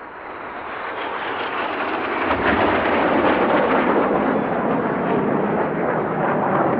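BAE Hawk T1 jet trainers flying past, their turbofan engines giving a rushing jet noise. It builds over the first two and a half seconds, a deep rumble joining in, then holds loud and steady.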